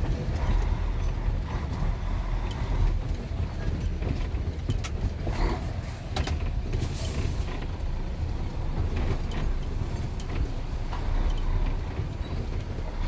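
A truck running: a steady heavy low engine and road rumble, with a few short rattles and clicks about halfway through.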